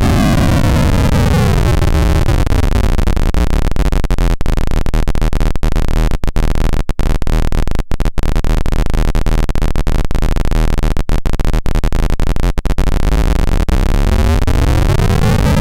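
Digital noise from a Doepfer A-117 Eurorack module, its clock rate swept down so the hiss turns into a coarse, gritty buzz with brief dropouts, then swept back up toward smoother noise near the end.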